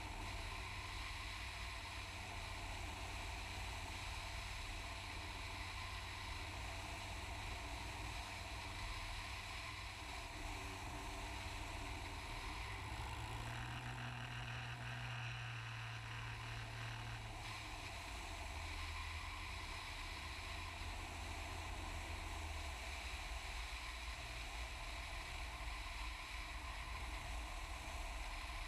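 Cessna 182S's six-cylinder Lycoming engine and propeller running at low approach power, with a steady rush of air. The engine note shifts for a few seconds about halfway through.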